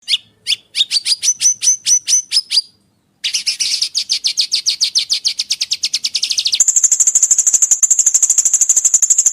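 Recorded songbird training calls. First comes a run of about ten sharp, rising chirps. After a short break, a fast buzzy trill follows, and about six and a half seconds in it switches to a higher, steady rattling trill.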